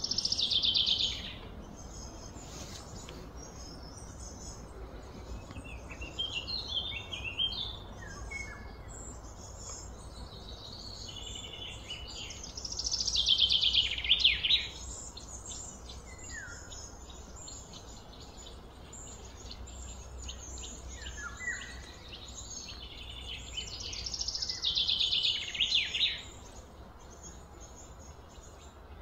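A bird calling: a loud, high, fast-pulsed trill that falls in pitch over about two seconds, three times about twelve seconds apart, with fainter high chirps in between. A steady low rumble runs underneath.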